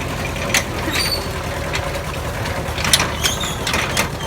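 Tractor engine idling steadily, with a few sharp mechanical clicks and short squeaks over it.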